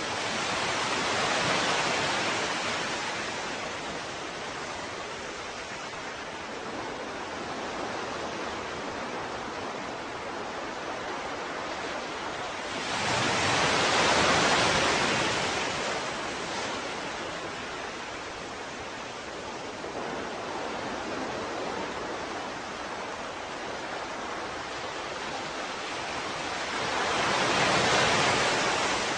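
Ocean waves on a shore: a steady hiss of surf with three waves swelling and washing back, about one every 13 seconds.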